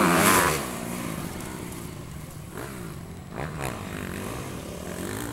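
Motocross motorcycle engines revving, loud in the first half second and then dropping away, with engines rising and falling in pitch further off a couple of times after.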